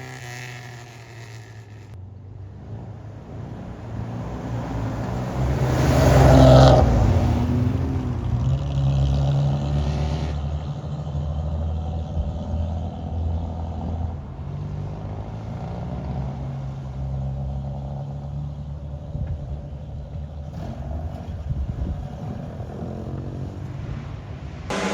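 Classic car engines running as cars drive out one after another. One passes close about six seconds in, and that is the loudest moment.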